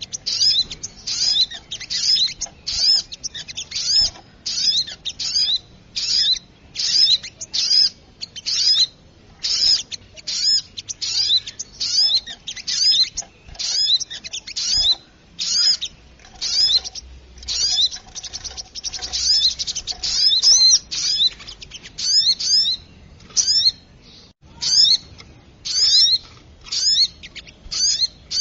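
Little spiderhunter (sogok ontong) calling noisily: short, sharp, high chipping notes repeated about two a second without a break, sometimes in quick pairs, as played for a bird lure.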